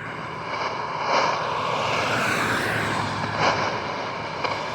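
Shortwave static from a Tecsun PL-880 portable radio tuned between stations: a steady rushing hiss with faint whistles and crackle, and no voice coming through.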